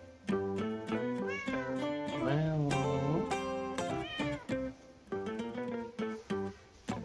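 Background music of plucked guitar notes, with a cat meowing over it: one short meow about a second in, a longer drawn-out meow between two and three seconds, and another short one about four seconds in.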